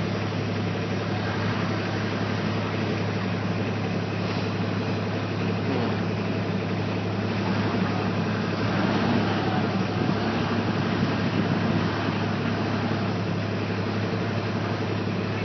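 Tractor engine running steadily with a constant low hum, slightly louder about nine to twelve seconds in.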